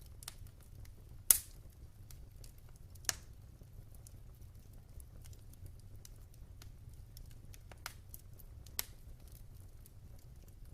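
Wood fire crackling in a fireplace: scattered small crackles over a low steady rumble, with one sharp loud pop a little over a second in and a few smaller pops later.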